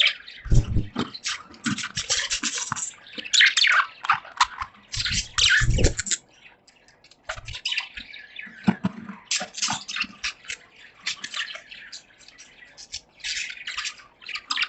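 Budgerigars chirping and chattering in a cage, a rapid stream of short high calls that thins out for a few seconds past the middle. A few low thumps come under the calls near the start and about five seconds in.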